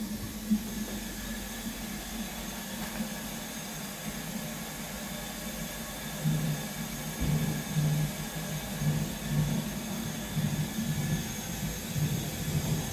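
Heritage railway train running: a steady low rumble, joined about six seconds in by a regular beat roughly twice a second.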